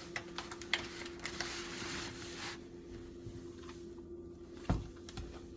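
Kitchen handling sounds at a pan: light clicks and a brief rustle or sizzle, then a single low thump near the end, over a steady electric hum.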